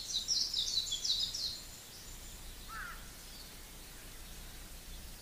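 Small songbird singing a rapid run of high, repeated notes that stops about a second and a half in, followed by a single brief lower bird call near the middle, over faint outdoor background noise.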